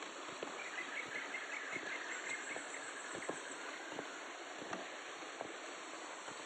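Steady rushing of a forest stream, with a rapid run of short chirps from a bird or insect in the first half and scattered faint taps.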